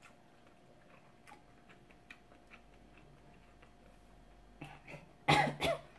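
Close-miked chewing: faint, scattered wet mouth clicks, then a few short, louder mouth sounds near the end.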